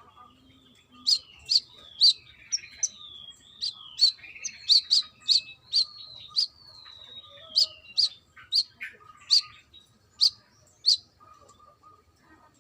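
Brown-throated sunbird (kolibri kelapa) singing: a run of sharp, high chirps, about one to two a second, mixed with thin whistled notes sliding downward.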